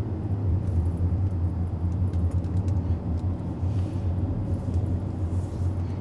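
Steady low rumble of road and drivetrain noise inside the cabin of a Mercedes GLS 400d SUV while it is being driven.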